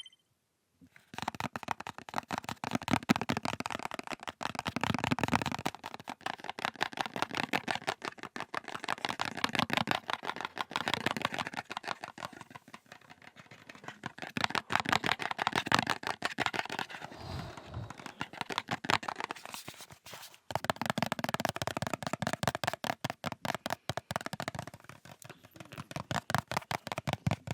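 Fingers tapping rapidly on a cable box: a dense run of quick, light taps, with a brief pause about twenty seconds in.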